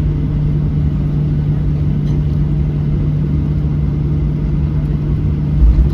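Steady low rumble inside the cabin of a Boeing 737-800, with a constant low hum running under it and a brief low bump near the end.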